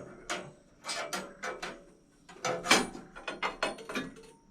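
Irregular clattering and scraping of a steel sawmill band blade being worked free of its band wheel and housing.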